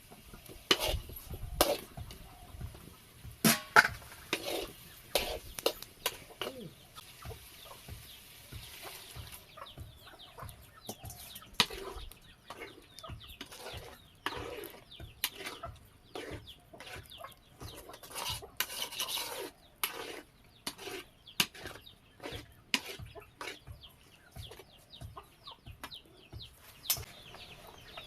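Chickens clucking, mixed with many short clicks and clinks like a plate and utensils being handled.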